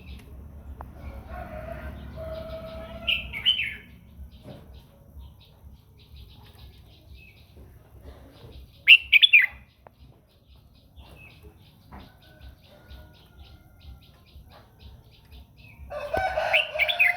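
Red-whiskered bulbul singing short, loud, high whistled phrases, the loudest about nine seconds in. A rooster crows twice, once near the start and once near the end, with faint rapid high chirping in the background.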